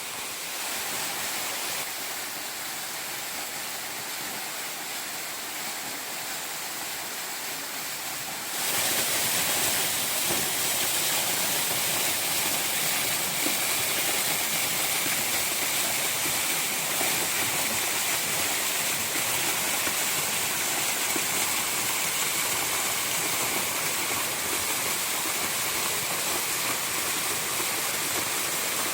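Steady rush of water from a small waterfall about 10 m high with little flow, splashing onto rocks. It becomes clearly louder and brighter about a third of the way through, then holds steady.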